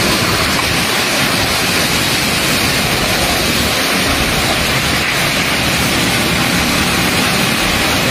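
Torrential rain driven by strong wind: a loud, steady, dense hiss that does not let up.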